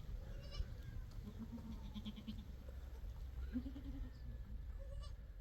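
Goats bleating: a wavering call a little over a second in and a shorter one near the middle, over a steady low rumble.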